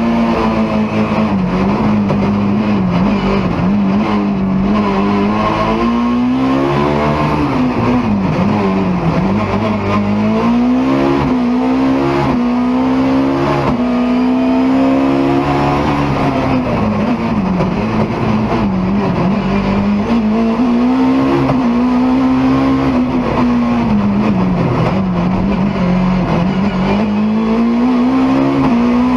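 BMW E30 M3's four-cylinder engine driven hard, its revs climbing and dropping again and again as the car accelerates, shifts and lifts for corners.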